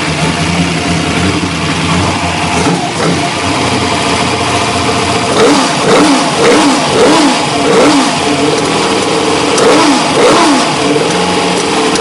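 Race car engine idling steadily, then revved in a series of about eight quick throttle blips, each rising and falling in pitch, from about halfway in.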